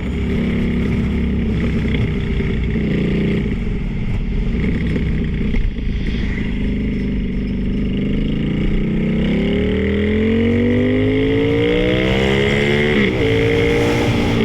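Motorcycle engine running as the bike sets off: low and steady at first, then the revs climb for several seconds, with a brief dip in pitch near the end before it runs on higher.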